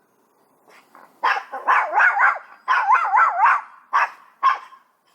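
Chihuahua barking at a cat: after about a second of quiet, a quick run of yappy barks, then two single barks near the end.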